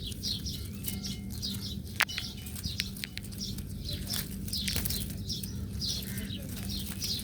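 Small birds chirping, short high chirps repeating quickly throughout, with a sharp click about two seconds in over a steady low hum.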